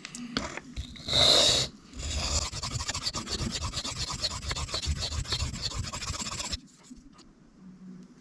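Knife blade being stroked rapidly back and forth across a sharpening stone: a steady run of gritty scraping strokes that starts about two seconds in and stops near the end, evening out the edge bevel once the chip is ground away. A brief louder swish comes about a second in.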